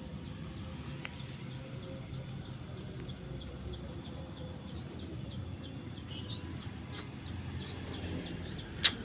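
Outdoor ambience: a small bird giving short high chirps a few times a second over a low wind-like rumble and a steady high whine, with one sharp click near the end.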